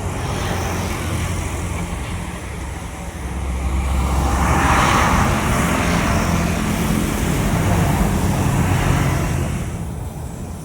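Jet airliner passing: a rushing jet roar with a low rumble swells about four seconds in, holds for several seconds, then fades.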